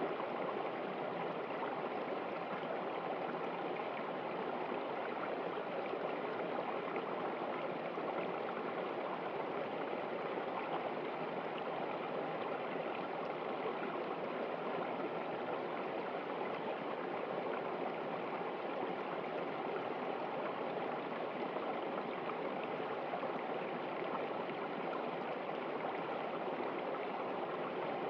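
Water running steadily in a stream, an even rushing and gurgling with no distinct splashes.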